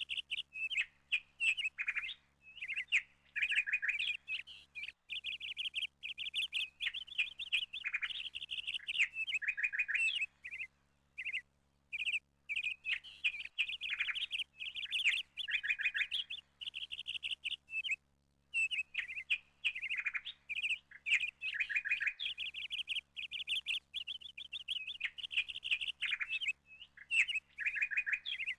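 Small birds chirping and twittering in rapid runs of high notes, broken by short pauses.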